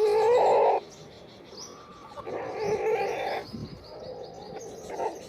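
Chickens calling: a loud call right at the start, a longer one about two seconds in, and a weaker one near the end, with faint high peeps, typical of chicks, in between.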